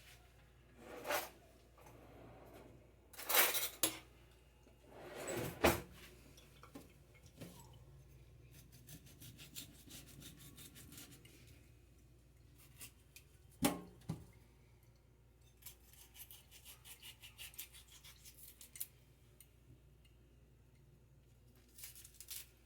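Kitchen handling sounds: containers and packaging knocked, scraped and rubbed, with several louder knocks and two runs of fast, even clicking in the middle and later part.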